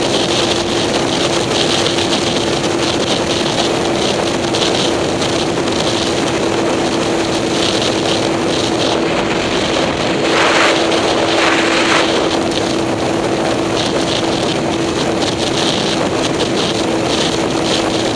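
A vehicle being driven at a steady speed, its engine holding one steady note, with wind rushing over the microphone. The wind noise swells briefly a little past halfway.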